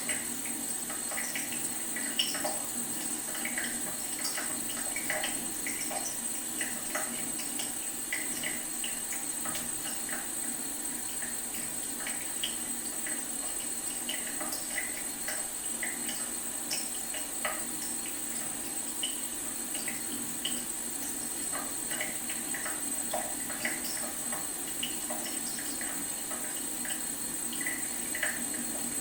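Leaking faucet: a steady thin trickle of water with many small, irregular drip plinks, several a second.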